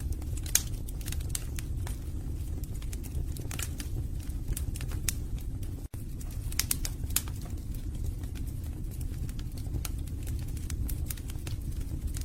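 Wood fire burning in a fireplace: a steady low rumble of the flames with frequent sharp crackles and pops from the burning logs. There is a split-second gap about six seconds in.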